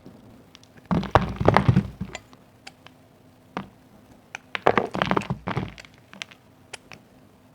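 Bar soap being cut into cubes: two bursts of crisp crunching and cracking, about a second in and again past the middle, with scattered small ticks between.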